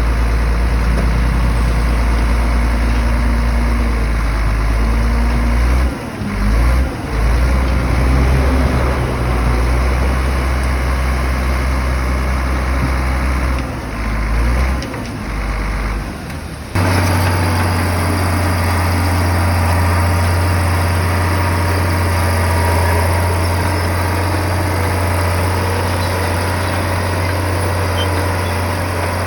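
Heavy bulldozer diesel engine running with a deep, steady drone that dips briefly a few times. About two-thirds of the way in the sound changes abruptly to a steadier, slightly higher engine hum.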